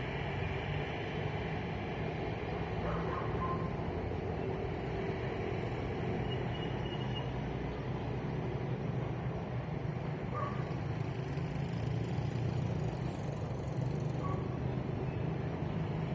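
Steady low rumble of road traffic, cars and trucks passing continuously.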